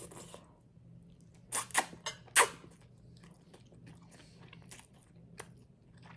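Close-miked eating sounds: three loud crunching bites into crunchy garlic bread about one and a half to two and a half seconds in, followed by quieter chewing clicks.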